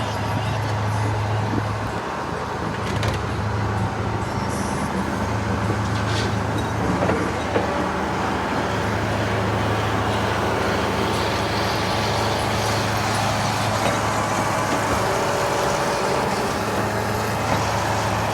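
Excavator's diesel engine running steadily with a deep, even hum as the machine drives up.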